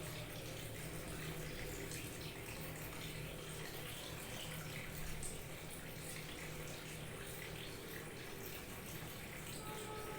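Small waterfall: water trickling and splashing steadily.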